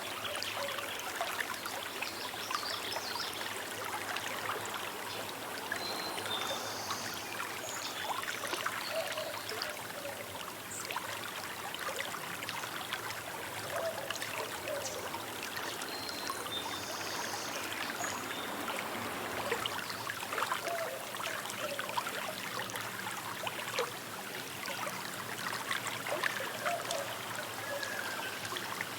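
A small river's water flowing and trickling steadily, with dense fine bubbling.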